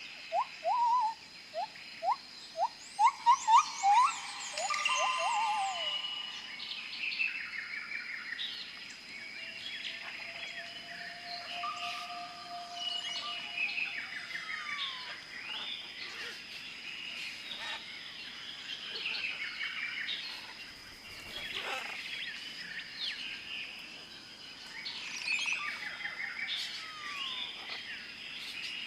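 Several birds chirping and singing together. A run of short, loud rising notes comes in the first four seconds, then a busy mix of whistles and trills continues over a steady high-pitched tone.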